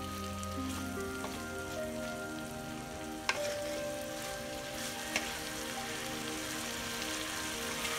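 Hilsa pieces in mustard gravy sizzling in a metal karai while a metal spatula stirs through them, with two sharp knocks of the spatula on the pan, about three and five seconds in. A soft melody of held notes plays underneath.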